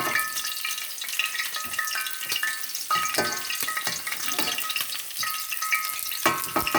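Homemade french fries sizzling and crackling in hot frying grease, in their final fry and nearly done, with a few short metallic clinks and scrapes.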